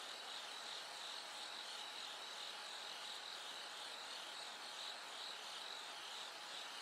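Bell crickets (suzumushi) singing: a steady chorus of high-pitched, ringing chirps repeating evenly, over a faint background hiss.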